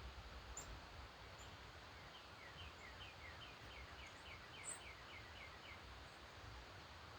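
Faint bird song: a run of about a dozen short, falling notes at about four a second, from about two seconds in to near six, with a few thin, very high chips from another bird.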